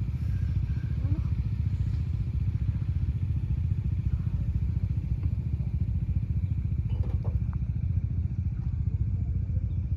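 Motorcycle engine idling with a steady low throb, left running to warm up after a freezing night at altitude, when the bikes would not start or move properly from cold.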